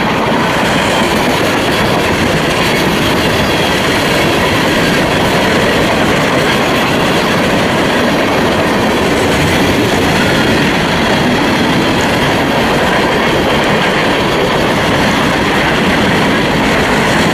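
Florida East Coast freight train's cars rolling past, a loud steady rumble of steel wheels on the rails.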